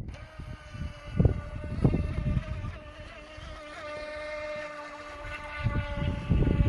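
Electric motor of a TKKJ H102 radio-controlled boat running with a steady whine, its pitch dipping slightly a little under four seconds in. Wind buffets the microphone in gusts, strongest near the end.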